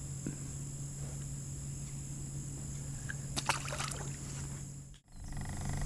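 Steady high-pitched insect drone over a low hum, with a short run of light clicks about three and a half seconds in; the sound drops out suddenly for a moment near the end.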